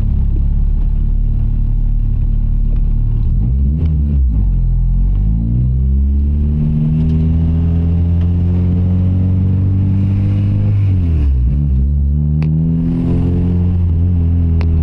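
Honda K-series four-cylinder engine pulling the car along, heard from inside the cabin. Its note climbs steadily as it accelerates, dips and climbs again about four seconds in, and drops sharply around eleven seconds in before rising again, as at a gear change.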